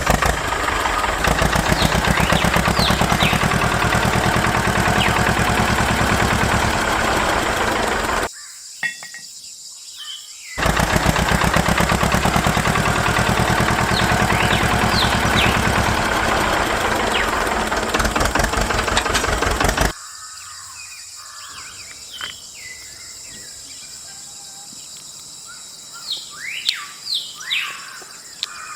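An engine running with a rapid, even beat. It cuts off abruptly about eight seconds in, starts again a couple of seconds later, and stops abruptly about twenty seconds in. Birds chirp in the quiet stretches.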